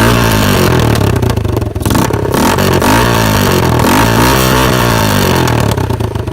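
Engine revved up and down several times through a homemade exhaust with no muffler fitted, loud enough to hurt the ears.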